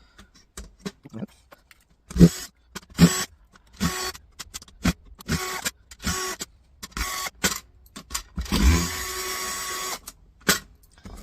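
Small electric screwdriver whirring in short stop-start bursts as it backs screws out, with one longer run of about a second and a half near the end.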